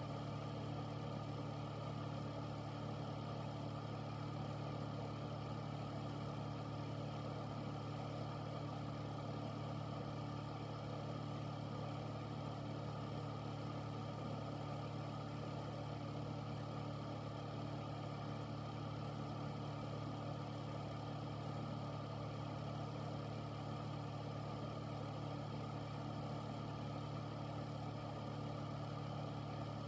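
Air filter unit running steadily: a low, even motor hum under a constant rush of air.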